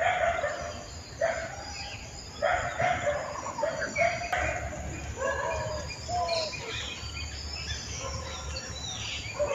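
Birds calling and chirping, many short calls overlapping one another.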